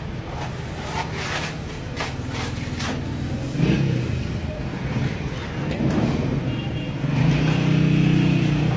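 A motor running with a steady low hum that swells louder about three and a half seconds in and again near the end, with a few scraping strokes in the first seconds.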